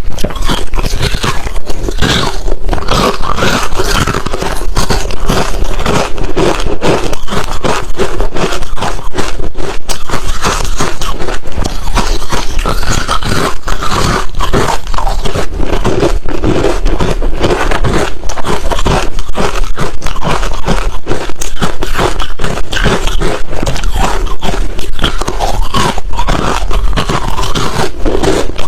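Hard, refrozen crushed ice being bitten and chewed close to the microphone: loud, continuous crunching and crackling.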